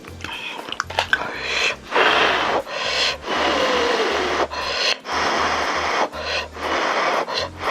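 Close-miked eating sounds: wet chewing and slurping in repeated bursts about half a second to a second long, with a few sharp clicks about a second in.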